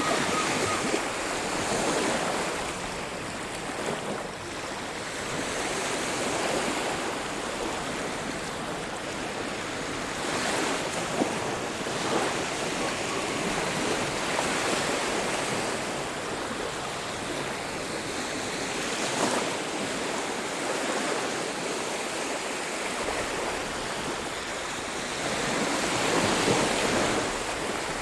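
Sea surf washing onto a beach: a steady rush of waves that swells louder as each wave breaks, about every eight to nine seconds.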